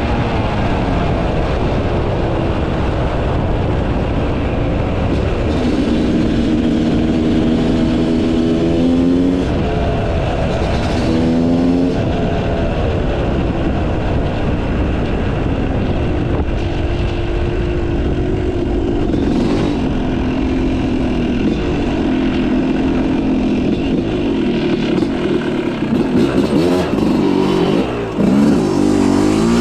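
Yamaha YZ250 two-stroke motocross engine with a Pro Circuit exhaust running under a rider, its revs climbing and dropping again and again, with quicker rises and falls near the end.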